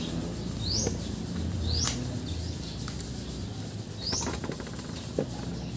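A bird calling: a short, high, upward-sliding chirp, repeated a few times about a second apart, over faint clicks from people eating.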